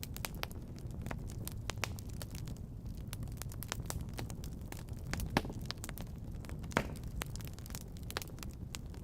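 Wood fire crackling in a fireplace: irregular sharp pops and snaps over a low steady rumble, with two louder pops a little past the middle.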